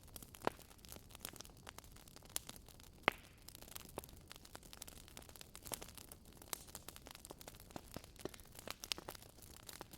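Wood fire crackling in a fireplace: irregular pops and snaps over a soft steady hiss, with a sharper pop about three seconds in.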